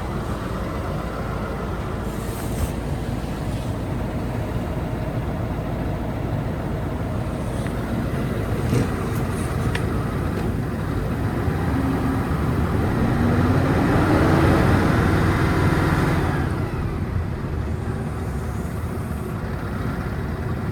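Scania R520 truck's V8 diesel running steadily; about two-thirds of the way through the engine speed rises and it gets louder for a few seconds, then drops back.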